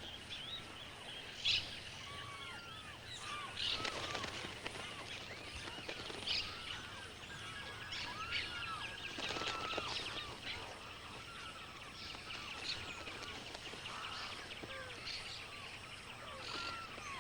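A wetland bird chorus: many birds giving short, arched calls and chirps that overlap throughout, over a steady background hiss.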